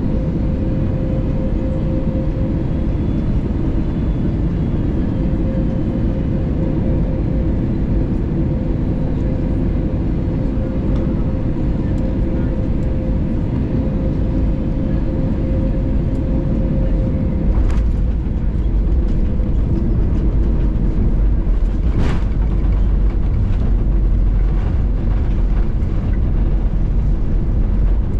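Cabin noise of an Airbus A320neo rolling out on the runway after touchdown: a steady loud roar with deep rumble and a steady hum that fades about two-thirds of the way through. Two brief sharp clicks sound near the end.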